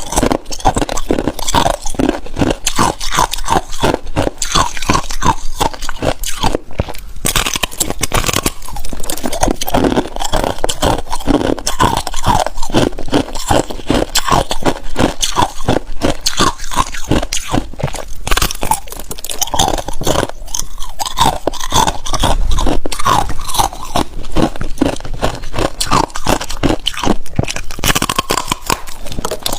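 Hard ice being bitten and chewed close to the microphone: a steady run of loud, rapid crunches and cracks, several a second, with brief pauses between mouthfuls.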